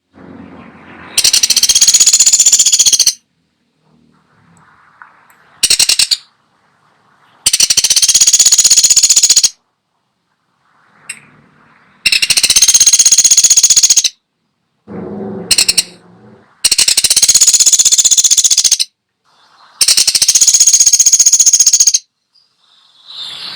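Pelatuk sampit woodpecker giving loud, rapid rattling calls: five runs of about two seconds each, with two short bursts in between.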